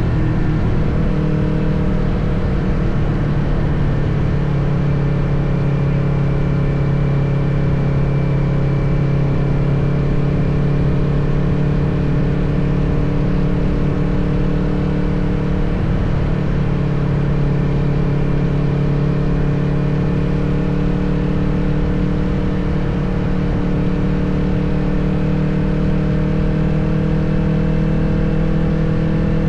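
Kawasaki motorcycle engine running steadily at cruising speed, with wind and road noise. The engine pitch rises slightly near the end.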